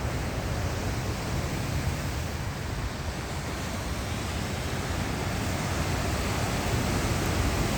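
Steady rushing noise of ocean surf and wind, with a low rumble of wind on the microphone, slowly growing louder.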